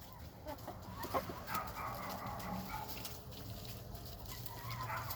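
Chickens clucking softly, with a few light taps.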